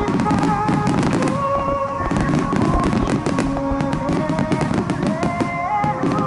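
Fireworks display bursting and crackling densely, a rapid unbroken stream of sharp cracks and low booms, with accompanying music of held notes and a slow melody heard alongside.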